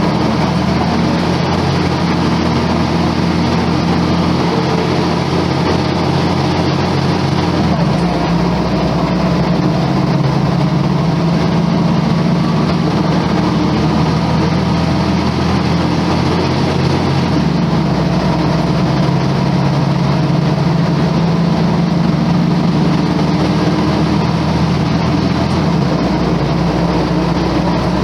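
Volvo B10M bus's underfloor straight-six diesel engine running with a steady, loud drone. Its low tone shifts three times, about 8, 17 and 26 seconds in.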